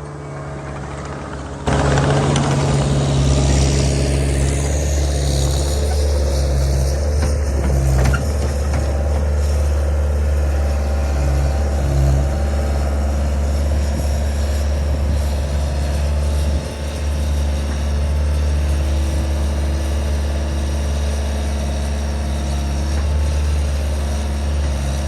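Skid steer engine running steadily, stepping up in loudness about two seconds in as it works under throttle. A couple of short knocks come through around eight and twelve seconds in.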